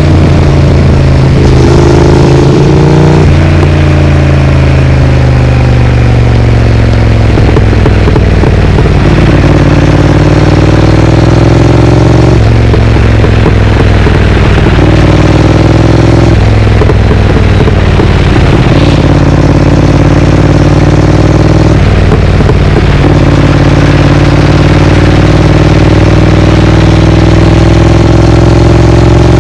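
Triumph Speed Twin's parallel-twin engine through a Vance & Hines aftermarket exhaust, under way. The engine note climbs steadily and drops sharply at each of several gear changes.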